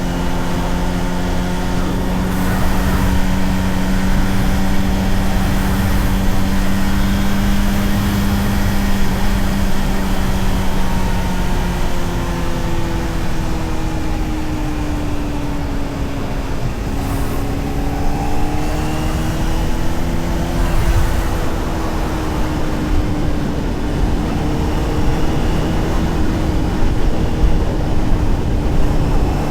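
Honda CBR600RR's inline-four engine running at steady cruising revs under way, mixed with wind rush. About halfway through, the engine note drops and then climbs back.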